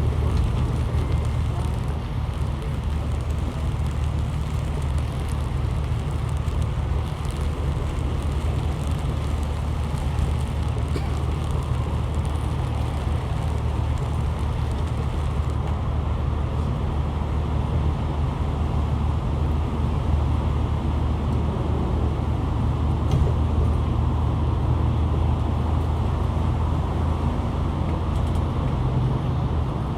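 Steady low drone and road noise of a motor vehicle, unchanging throughout, with a constant low hum under it.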